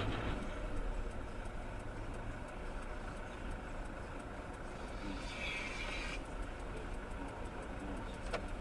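Steady low engine and road noise of a car on the move, as picked up by a dashcam, with a brief higher hiss about five seconds in.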